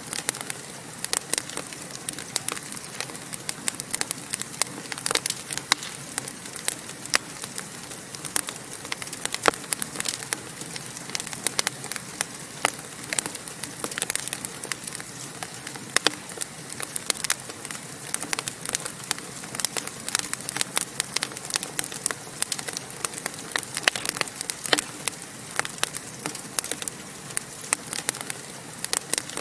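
Wood fire crackling in a fireplace: a steady hiss of flames with many sharp, irregular pops and snaps.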